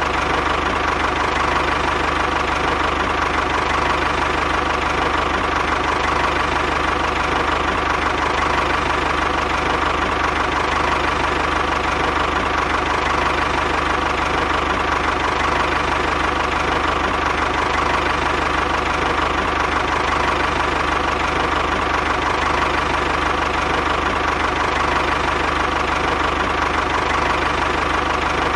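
Small motor running steadily at constant speed, an unbroken whine with no change in pitch or level.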